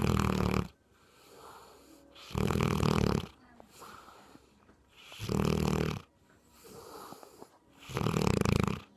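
Sleeping dog snoring: four loud snores about every two and a half to three seconds, with a fainter breath out between them. The sound cuts off suddenly near the end.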